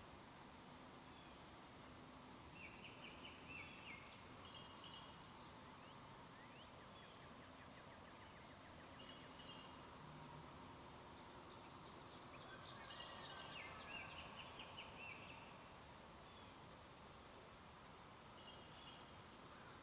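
Faint wild turkey gobbling in the distance, about four calls spaced several seconds apart over quiet woodland background, the longest and loudest about 13 seconds in.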